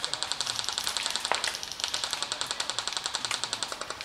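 Airsoft gun firing a long full-auto burst: a fast, even rattle of about a dozen shots a second, with one sharper crack about a second and a third in.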